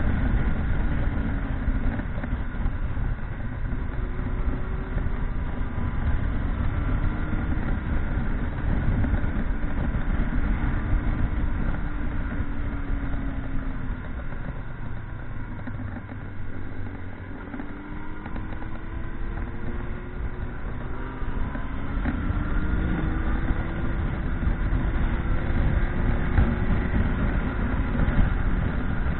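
Motorcycle engine heard while riding, its note rising and falling with the revs over a steady low rumble of wind and road. It eases off around the middle, then picks up again.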